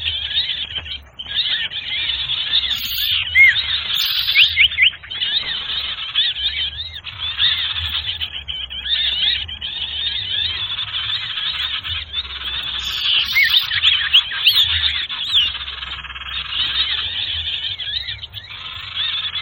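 A dense, noisy chorus of many small birds chirping and twittering at once, the rapid looping calls overlapping without a break. It is a recorded lure track (suara pikat) for Sirtu birds, made to draw small birds in for catching, and it has a steady low hum underneath.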